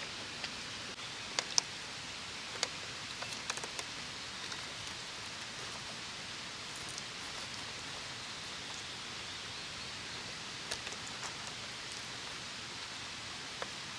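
Steady soft hiss of outdoor background noise with scattered small sharp clicks and crackles, a cluster in the first few seconds and a few more about two-thirds of the way through.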